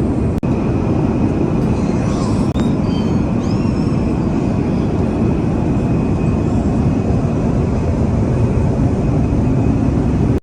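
Steady, loud rushing noise inside the cabin of an Airbus A350-900 airliner, with a few faint high tones about two to four seconds in.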